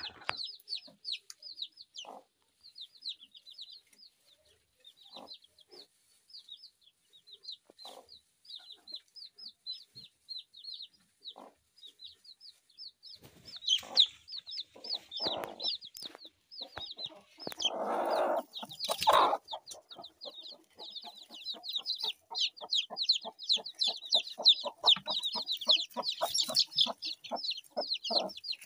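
Birds calling: a steady run of short, high chirps, several a second and growing denser in the second half, with scattered lower calls and a louder burst of noise about two-thirds of the way through.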